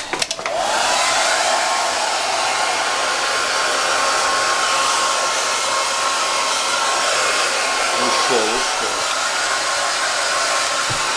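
Hair dryer switched on with a click, its motor whine rising in the first half second and then running steadily with a loud, even rush of blown air.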